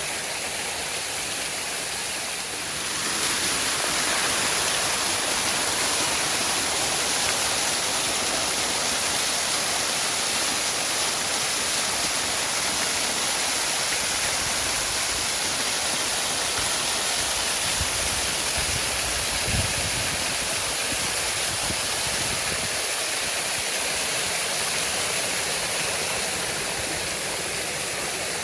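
Waterfall rushing in a steady roar of water, growing a little louder about three seconds in.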